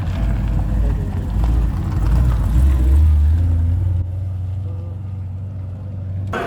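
Holden Commodore V8 rally car's engine running with a low rumble, settling into a steady drone about halfway through. The sound changes abruptly near the end.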